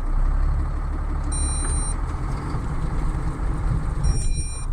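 A heavy truck's diesel engine is run up under load while its drive wheels spin in deep snow with the differential lock engaged; the truck won't move. A short in-cab warning beep sounds twice.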